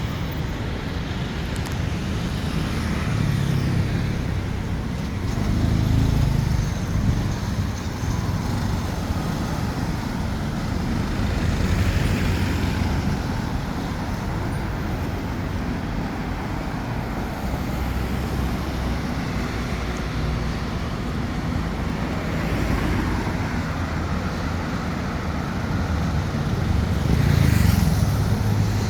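Steady road traffic, with vehicles passing close by several times; the loudest pass comes near the end.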